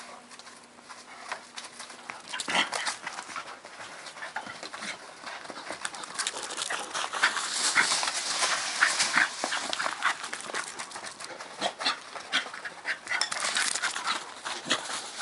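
A dog panting, with small whimpers, amid scuffling and rustling clicks that grow busier and louder about halfway through.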